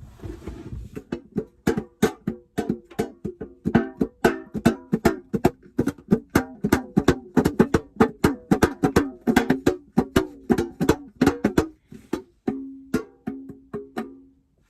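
A plucked string instrument played live in a small space: a quick run of plucked notes, several a second, then one note picked over and over near the end before it stops.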